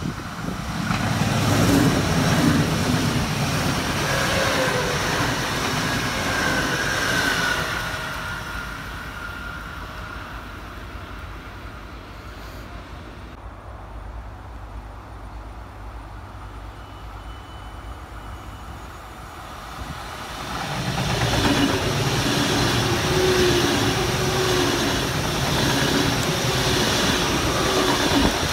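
Two electric trains passing close by on the tracks. A red S-Bahn electric multiple unit runs past in the first seven seconds or so. After a quieter gap, an ICE high-speed train passes from about twenty seconds in.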